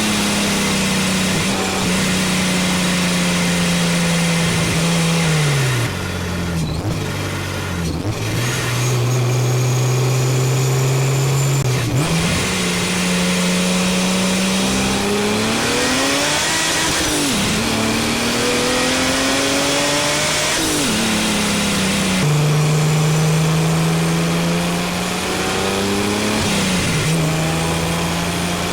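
Supercharged BMW 330ci straight-six engine, heard close from the engine bay while driving. It pulls through the gears: the engine note climbs, drops at each shift, and climbs again several times.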